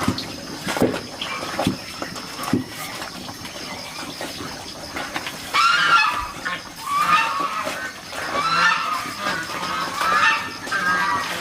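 A farm animal calling over and over, about five loud calls spaced a second and a half apart through the second half, after a few scattered knocks.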